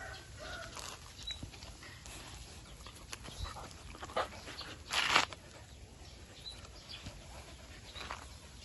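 Street dogs eating, with scattered small clicks and a short loud rustling noise about five seconds in; faint high chirps now and then.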